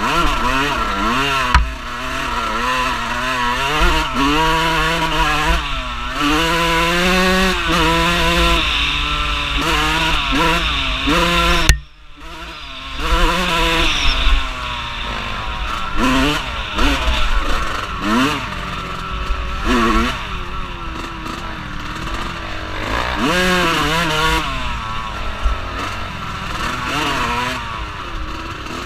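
Off-road vehicle engine running under changing throttle, its pitch rising and falling again and again, with wind buffeting the microphone. The sound drops out abruptly for a moment about twelve seconds in.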